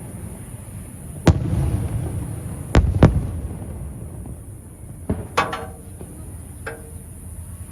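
Aerial fireworks shells bursting: three heavy booms in the first three seconds, the last two close together, each trailed by a rolling rumble, then a cluster of smaller pops and crackles about five seconds in and another pop near the end.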